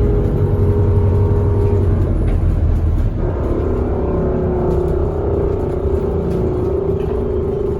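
Bus engine and drivetrain running under way, heard from inside the passenger saloon, with a steady whine over the rumble. The low rumble eases about three seconds in while the whine carries on.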